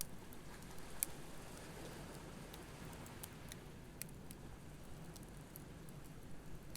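Campfire crackling with scattered sharp pops, the loudest about a second in, over a steady low wash of waves breaking on the beach.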